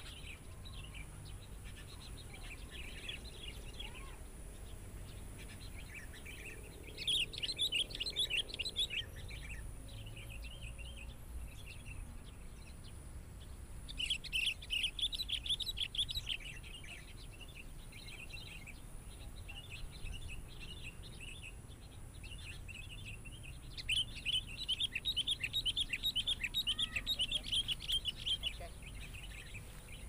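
Bird chirping: three bursts of rapid, high chirps, the longest near the end, with scattered single chirps between.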